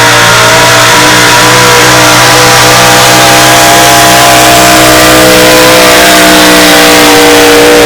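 Competition pulling truck's engine held wide open at high revs while under load on the sled, very loud. Its pitch stays almost level, sagging only slightly.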